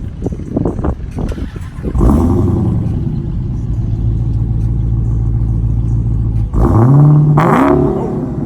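2019 Dodge Challenger Hellcat's supercharged 6.2-litre Hemi V8 starting up about two seconds in with a loud flare, then idling steadily. Near the end it is revved once, the pitch rising and falling back.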